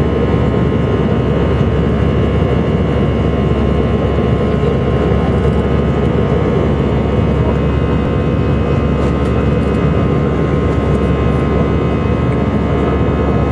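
Steady jet-engine and airflow noise inside the cabin of an Airbus A319-111, with several steady tones from its CFM56 engines over it.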